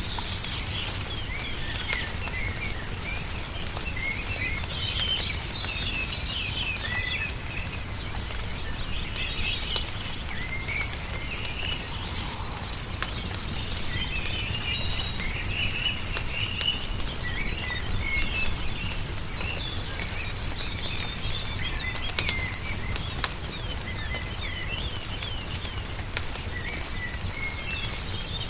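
Many small birds chirping and twittering in overlapping calls, with scattered sharp pops from a crackling wood fire and a low steady rumble underneath.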